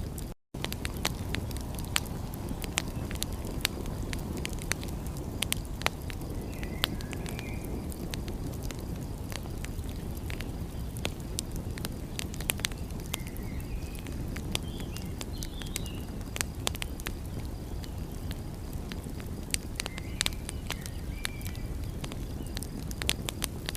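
Wood fire crackling with frequent sharp pops over a steady low rushing noise, with a few faint short chirps scattered through. The sound cuts out completely for an instant about half a second in.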